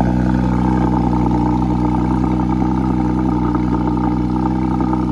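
Car engine idling with a steady, loud exhaust burble.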